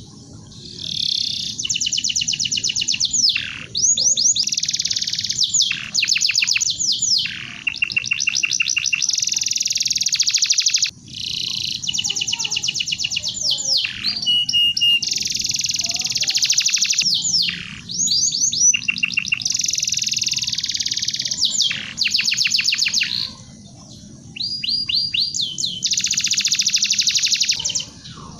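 Domestic canary singing: long, high-pitched phrases of rapid trills and quickly repeated notes, each a few seconds long, with short pauses between them.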